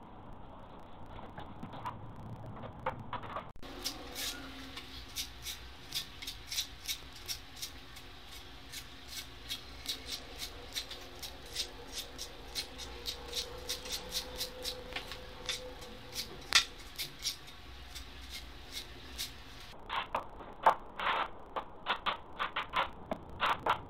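A long run of sharp, irregular clicks or taps, roughly two a second, over a faint steady hum.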